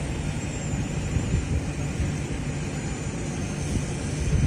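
Small electric RC helicopter, a 1:34 scale UH-1 Huey, flying with its rotor and motor whirring steadily: a low rotor hum under a faint, wavering high motor whine as it lifts off and hovers.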